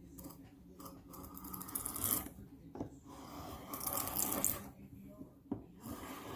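A hand tool scraping along the edge of a wooden board, cleaning it up: rough, hissing strokes in two short runs with a few knocks between.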